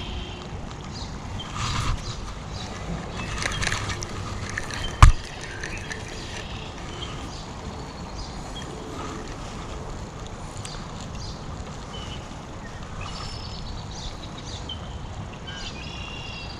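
Outdoor river ambience: a steady rush of water with a low rumble, and birds chirping briefly near the start and again near the end. A single sharp click about five seconds in is the loudest sound.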